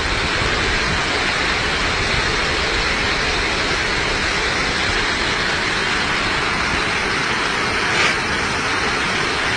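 Heavy rain falling steadily, a dense even hiss, with one brief sharper noise about eight seconds in.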